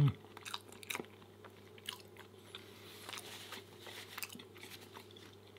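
Close-miked chewing of soft flapjacks topped with whipped cream: irregular wet mouth clicks and smacks, fairly faint. It opens on the tail end of a hummed "mm" that cuts off at once.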